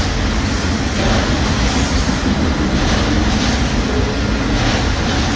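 Freight train cars rolling past close by: a loud, steady noise of wheels on the rails, with faint clacks recurring about once a second.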